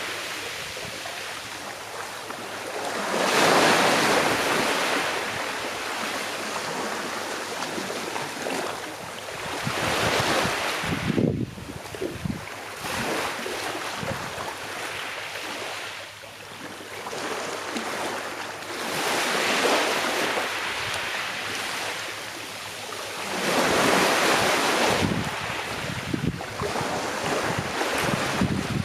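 Calm sea waves breaking and washing up on a shore, a steady rush of water that swells and fades about five times.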